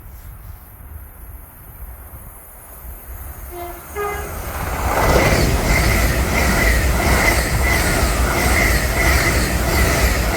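Train sounding a short two-note horn, low then higher, about three and a half seconds in, then passing close at speed with loud wheel-on-rail noise and a regular clatter over the rail joints.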